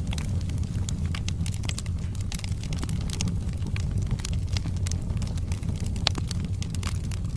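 Wood fire burning in a fireplace: dense, irregular crackles and pops of burning logs over a steady low rumble of the flames, with one sharper pop about six seconds in.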